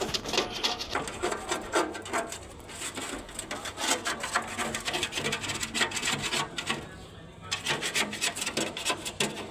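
Quick, repeated rubbing strokes on a microwave oven's casing, cleaning it ahead of repainting. The strokes pause briefly about seven seconds in, then go on.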